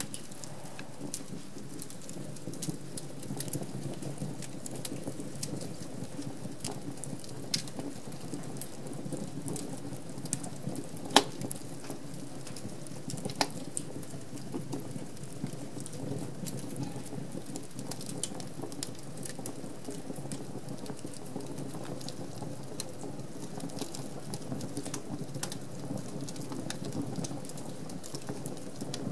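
Wood fire burning in a fireplace: a steady low rush of flames with frequent small crackles and pops, and one louder sharp snap about eleven seconds in.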